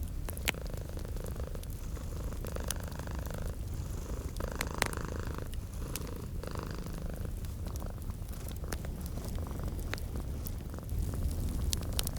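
Domestic cat purring steadily, with scattered pops and crackles of a wood fire in a fireplace.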